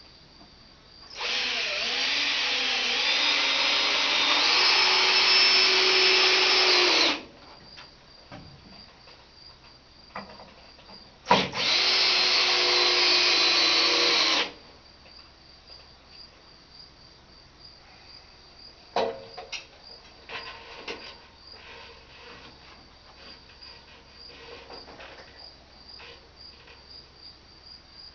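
A power drill runs in two bursts, about six seconds and then about three seconds, its motor pitch shifting partway through the first. Crickets chirp steadily throughout, and a few sharp knocks sound later on.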